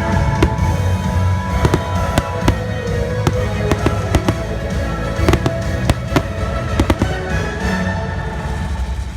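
Fireworks bursting in a rapid, irregular string of sharp bangs over the show's soundtrack music from the park speakers. The bangs thin out near the end while the music carries on.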